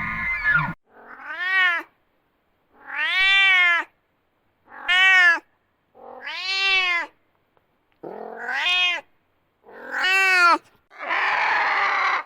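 Cat meowing repeatedly: about seven separate meows, each rising then falling in pitch, with short silent gaps between them; the last one near the end is rougher and noisier.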